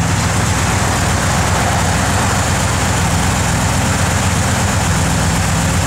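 The 1973 Corvette's L82 350 cubic-inch small-block V8 idling steadily, heard through its headers and Flowmaster dual exhaust.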